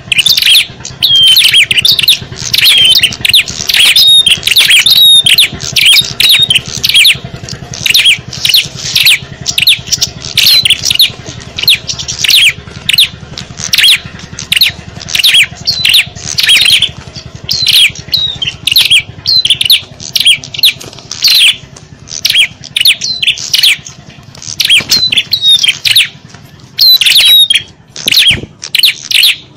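A dense, loud chorus of small songbirds chirping and chattering rapidly without a break, many short sharp notes and quick up-and-down whistles overlapping: a bird-lure recording of noisy small birds, played to draw wild small birds in.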